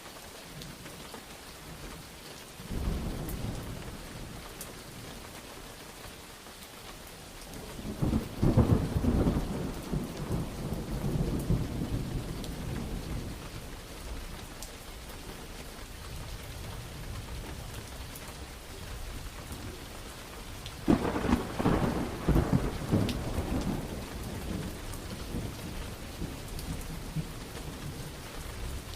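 Steady rain falling, with rolls of thunder rumbling over it: a short rumble about three seconds in, a louder one about eight seconds in that dies away over several seconds, and another that cracks in sharply about twenty-one seconds in and rolls off.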